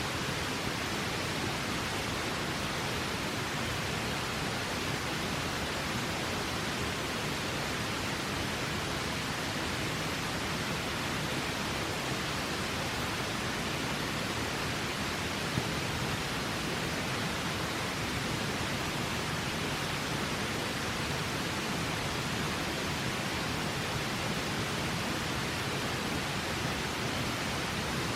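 Steady rushing of a river, an even wash of water noise, with one faint tick about halfway through.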